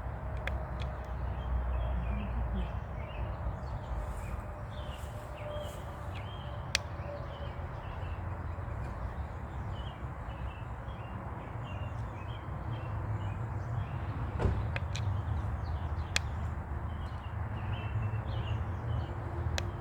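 Outdoor ambience: small birds chirping in quick, repeated short calls over a steady low rumble, with a few sharp clicks.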